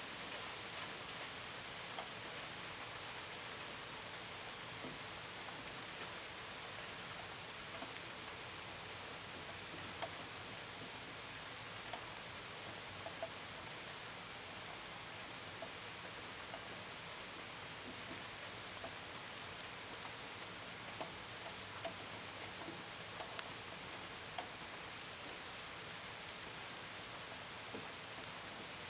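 Steady gentle rain, with scattered drops tapping against a window and gutters, and crickets chirping in a continuous high pulsing trill.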